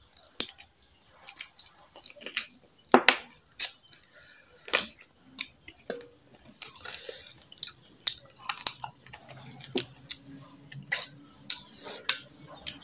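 Close-miked chewing of a mouthful of rice and curry: irregular wet smacks and clicks of the mouth.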